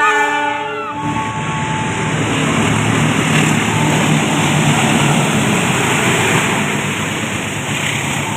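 A train passing through a station: a loud, steady rush and rumble of wheels and carriages on the rails. A held set of tones stops about a second in.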